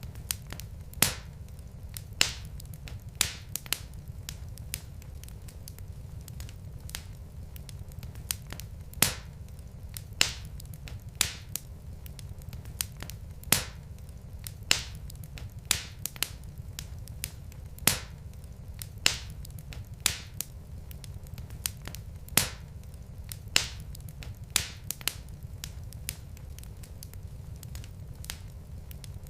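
Wood fire crackling in a fireplace: irregular sharp pops from the burning logs, sometimes a few a second, over a low steady rumble.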